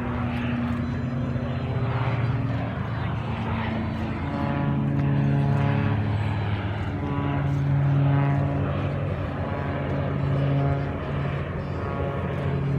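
Propeller aircraft engines droning overhead, a steady pitched hum that shifts slightly in pitch and grows louder through the middle.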